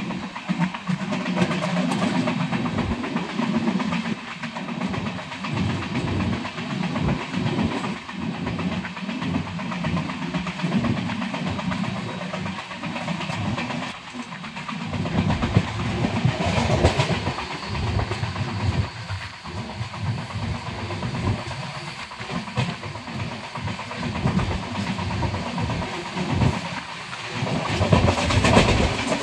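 Express passenger train running at speed, heard from an open coach doorway: a continuous rumble and rush of wheels on rails, with irregular clacks as the wheels cross rail joints.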